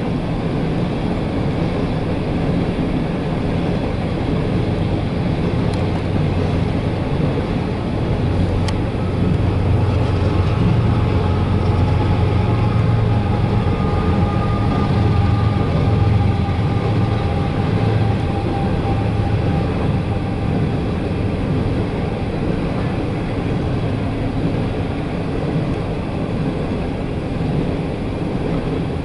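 Empty CSX coal train rolling past, heard from inside a car: a steady low rumble that grows louder for several seconds in the middle.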